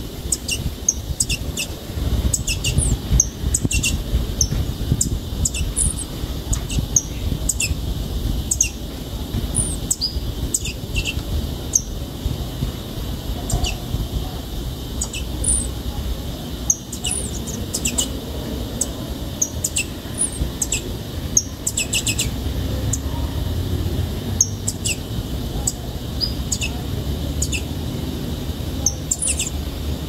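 Saffron finch (canário-da-terra) nestling calling, ready to fledge: many short, high chirps and quick sweeping peeps scattered throughout, over a low steady rumble.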